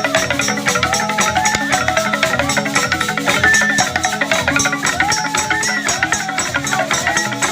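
Traditional Basoga instruments playing together: a quick, dense percussion beat over a recurring low drum pulse, with a melody that glides between held notes.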